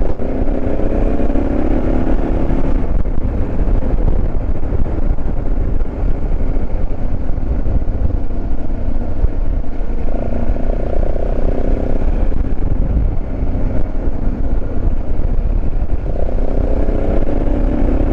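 Motorcycle engine running under way with heavy wind noise on the helmet microphone. The engine note comes up clearly three times: at the start, about ten seconds in, and near the end.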